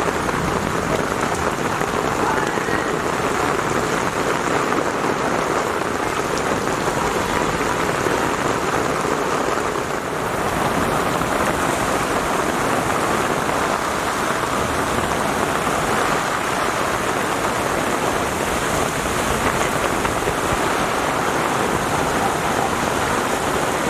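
Heavy rain pouring down steadily: a dense, even hiss of drops falling on the ground and surfaces.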